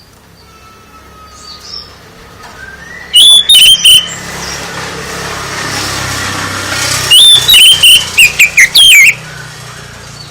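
Songbird singing in two loud bursts of sharp, quickly warbling chirps, about three seconds in and again from about seven to nine seconds in, with a steady hiss building between them.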